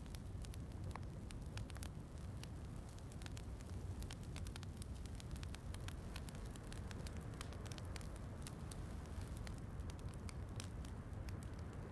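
Wood fire crackling in a fireplace: many scattered sharp pops and snaps over a steady low rumble.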